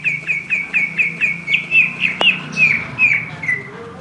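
Oriental magpie-robin (kacer) calling a fast run of short, repeated downward-slurred notes, about four a second, which stops near the end. A single sharp click about two seconds in.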